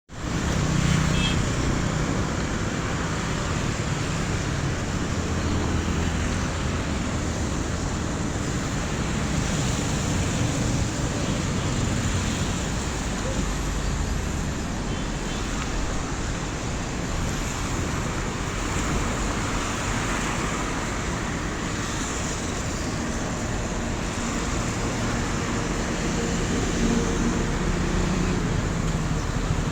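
Steady traffic noise on a rain-wet road: a continuous rumble of vehicles with the hiss of rain and tyres on wet tarmac.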